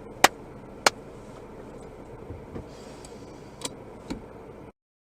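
Car turn-signal indicator ticking in the cabin, about three ticks every two seconds over steady road noise. The ticking stops about a second in, two fainter ticks follow near the end, and then the sound cuts off suddenly.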